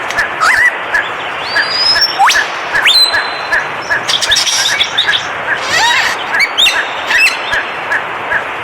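Several birds calling together: a short note repeated steadily about three or four times a second, with rising whistles and quick high chirps over it.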